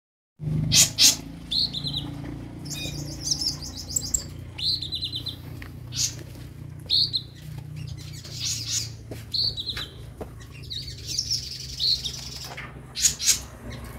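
Kolibri ninja sunbirds calling: sharp high chirps and short trills repeated every second or so, the loudest near the start and near the end, over a low steady hum.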